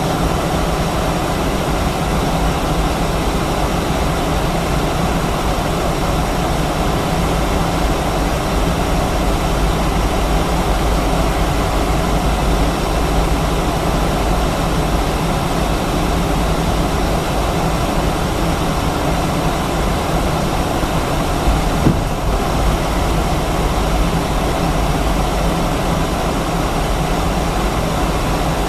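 Steady jet engine roar and airframe rumble inside the cabin of an Airbus A319-132 with its IAE V2500 turbofans running, with a low hum under it. A single brief knock about 22 seconds in.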